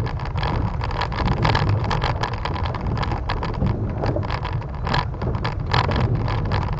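Car cabin noise while driving over a wooden plank bridge deck: a steady low road rumble with rapid, irregular clattering and knocking as the tyres roll over the loose planks.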